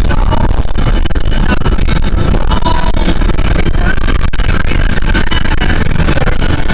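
Loud, steady vehicle noise with music mixed in.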